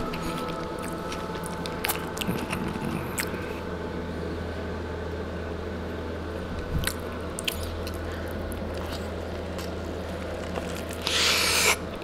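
Faint chewing of a chicken tortilla wrap, with scattered small mouth clicks, over a steady low hum. A short loud hiss comes near the end.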